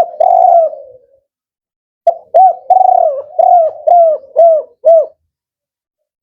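Male spotted dove (tekukur) cooing: a short phrase at the start, then after a pause of about a second a longer phrase of about six rhythmic coos, then it stops.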